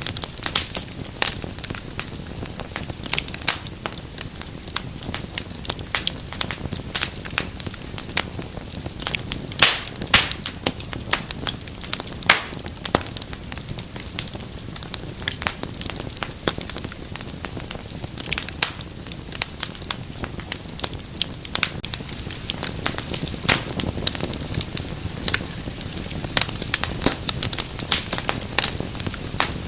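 Wood fire crackling steadily, with dense irregular snaps and pops over a soft hiss and a few louder pops now and then.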